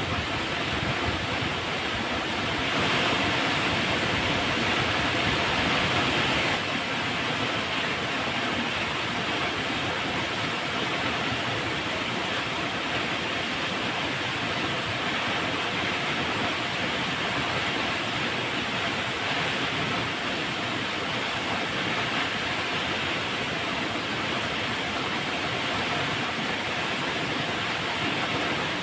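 Flowing river water rushing in an even, steady wash, a little louder and brighter for a few seconds starting about three seconds in.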